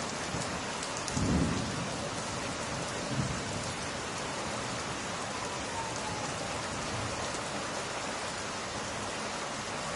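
Steady rain falling on glass, an even hiss throughout, with a short low rumble about a second in and a softer one around three seconds in.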